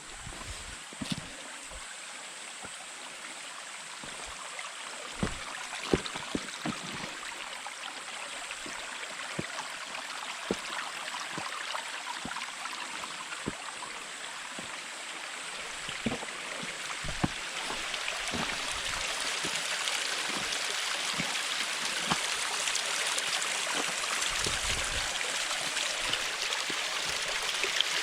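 Rushing stream water, a steady hiss that grows steadily louder, with scattered soft low thumps.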